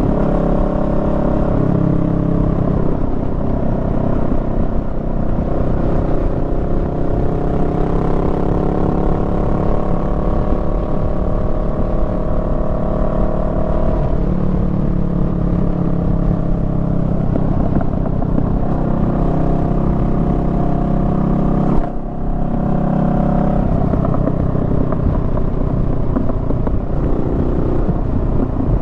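Honda Rebel 500's parallel-twin engine running under way, its pitch rising and falling as the throttle opens and closes. The engine note drops out briefly about three-quarters of the way through.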